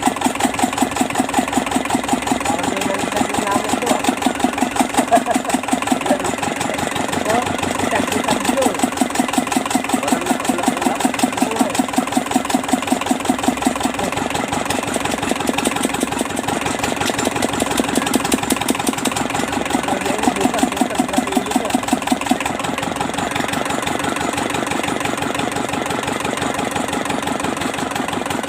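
Kubota Z751 two-cylinder diesel engine running steadily at idle, with a fast, even beat.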